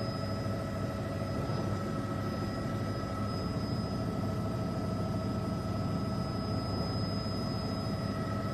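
Helicopter cabin noise: a steady engine and rotor drone with a constant high whine over it.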